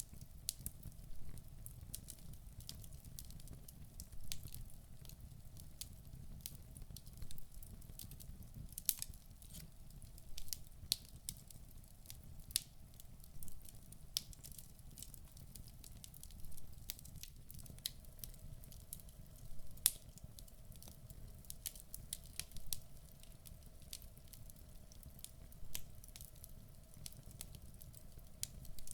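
Wood fire burning in a fireplace: a steady low rumble of the flames with frequent sharp crackles and the occasional louder pop from the burning logs.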